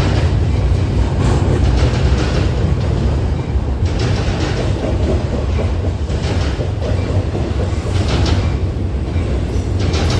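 Train passing close by: a steady low rumble, with wheels clacking over rail joints every second or two.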